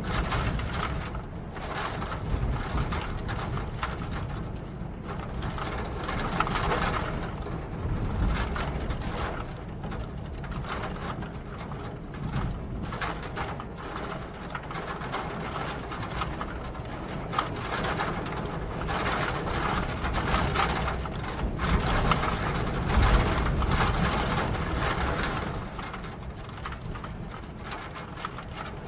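Steady rain, a dense patter of drops over a low rumble, swelling and easing a little.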